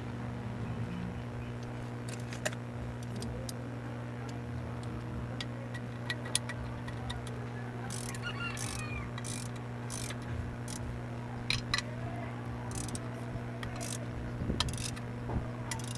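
Scattered sharp metallic clicks and clinks of hand tools at work on a car's clutch assembly, coming closer together in the middle, over a steady low hum.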